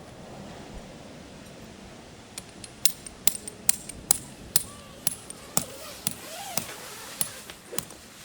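A run of about a dozen sharp knocks with a bright metallic ring, evenly spaced at roughly two a second, starting a couple of seconds in.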